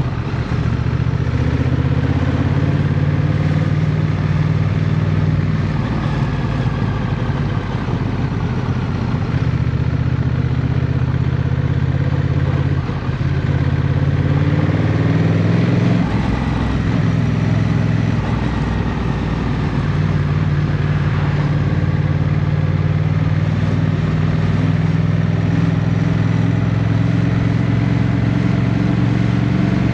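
Motorcycle engine running under way, with a steady low beat; about halfway through it eases off briefly, then its pitch climbs and it settles back into a steady run.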